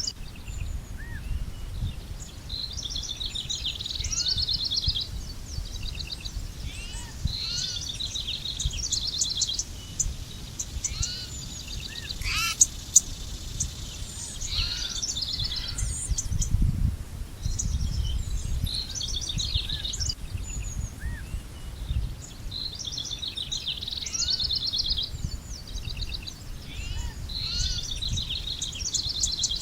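Songbirds singing: short, fast trilled phrases repeated every few seconds, with a few softer single chirps in between, over a steady low rumble of outdoor noise.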